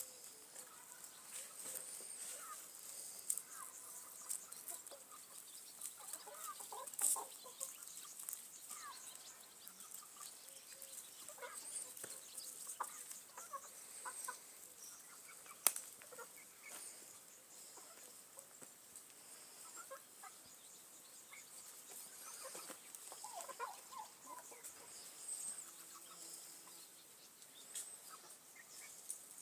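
Young chickens clucking and peeping faintly in short scattered calls, with a few sharp clicks, the loudest about halfway through.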